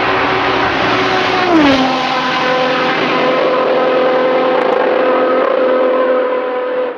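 Racing car engine running loud at high revs; its pitch drops sharply once about a second and a half in, then holds steady.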